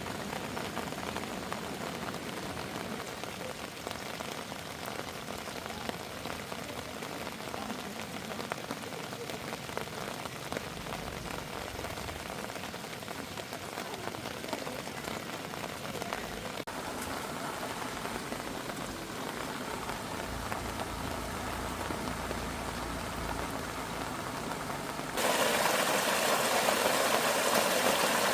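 Rain falling steadily, an even patter that turns suddenly louder near the end.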